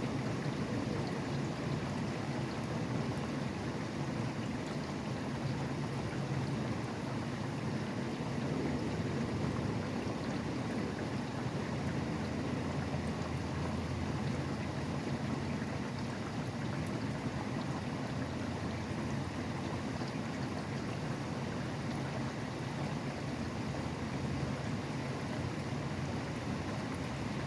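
Steady rain falling, mixed with the low, even rumble of traffic on a nearby highway.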